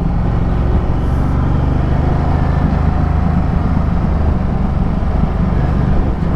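Ducati Multistrada 1200's V-twin engine running under way, with road and wind noise; the engine pitch shifts slightly a couple of seconds in.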